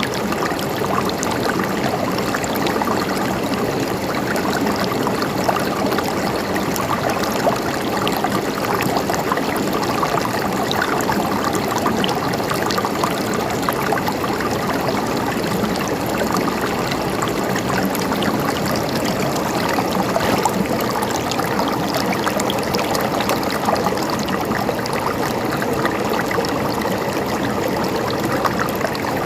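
River water flowing steadily, with a continuous rush and fine bubbling and trickling.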